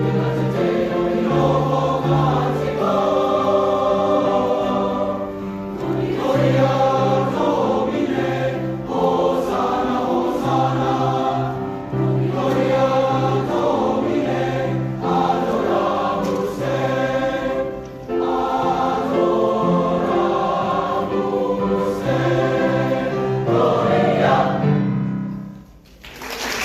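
High school choir singing a choral piece in chords, with phrases breathing every couple of seconds; the final chord fades and cuts off shortly before the end.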